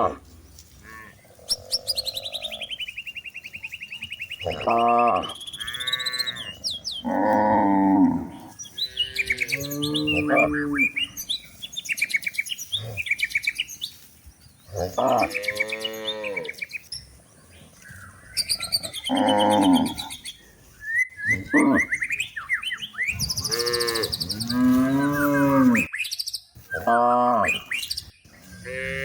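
Cows mooing again and again, each call lasting about a second, with birds chirping in the background.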